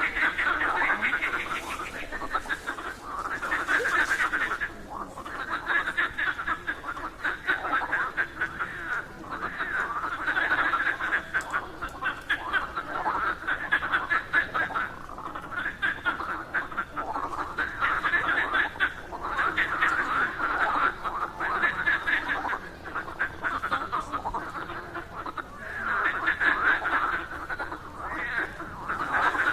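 A chorus of frogs croaking: many rapid pulsing calls overlap and swell in bouts every couple of seconds, never stopping.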